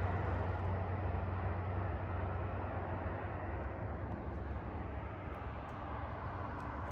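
Highway traffic noise: a steady rumble of passing vehicles with a low hum, slowly fading.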